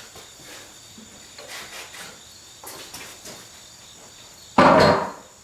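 Workshop handling noises during hands-on car restoration work: faint knocks and rustles, then a loud, sudden clatter about four and a half seconds in that dies away within half a second. A steady high-pitched whine runs underneath.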